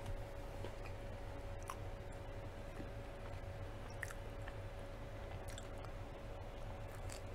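Close-up chewing of pizza with soft, scattered mouth clicks, and a fresh bite into the slice near the end. A faint steady hum runs underneath.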